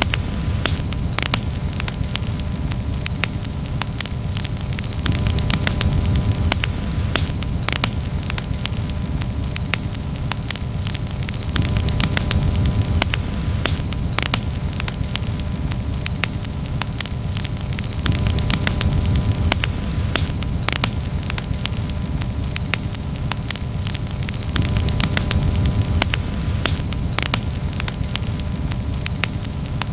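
Wood campfire crackling and popping in many irregular snaps over a steady low rumble.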